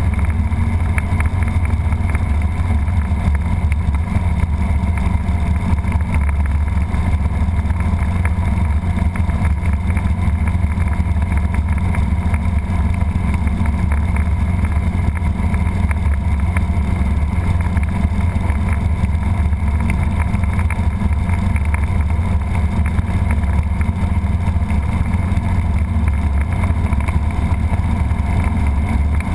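Robinson R22 helicopter's four-cylinder Lycoming piston engine and rotor running at a steady, unchanging pitch.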